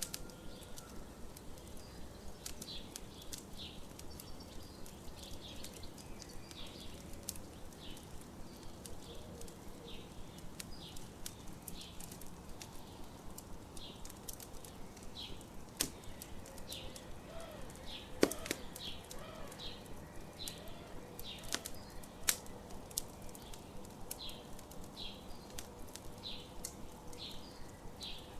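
Campfire crackling steadily with scattered short chirps, and a few louder sharp pops from the fire around the middle.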